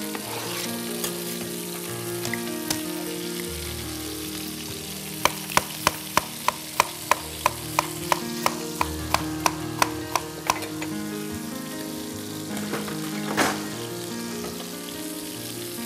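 Steady sizzle of chicken wings and chopped onion frying in hot pans. From about five seconds in to about ten and a half, a run of quick, even taps comes about three a second, and a single louder knock follows near the end.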